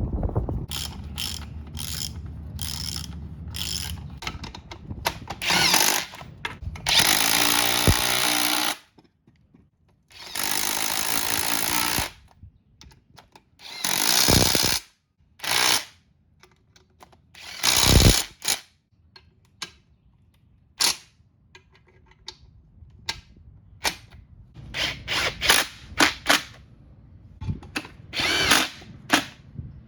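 A power tool, such as a drill or impact driver, run in repeated short bursts, with two longer runs of a second or two about a third of the way in, as bolts are driven during car reassembly.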